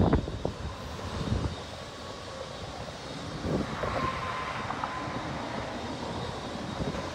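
Autorack freight cars rolling past on the rails: a steady rumble with wheel clatter, loud at first and settling after about a second and a half. A faint thin whine comes in briefly about four seconds in, over a background hiss of wind and road traffic.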